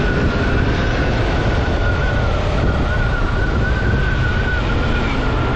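Motorcycle running at a steady speed: constant engine and road noise with a faint, slightly wavering high whine.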